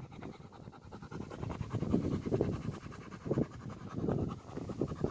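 Wind buffeting the microphone in uneven low gusts, with faint rustling.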